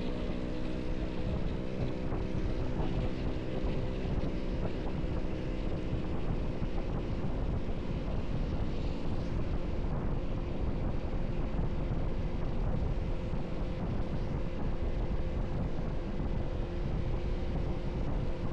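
Wind buffeting the microphone of a moving motorcycle, over the steady running of its engine and the traffic noise. A pitched drone fades out in the first few seconds.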